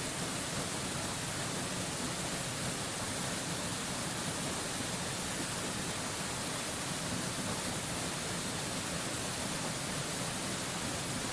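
Steady rush of a waterfall, an even, unchanging hiss with much of its strength in the high range.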